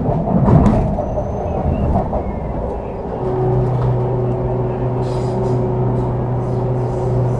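Interior noise of an MTR CRRC Changchun EMU motor car running between stations: a steady low rumble of wheels and running gear, with a brief knock about half a second in. About three seconds in, a steady low hum sets in and holds.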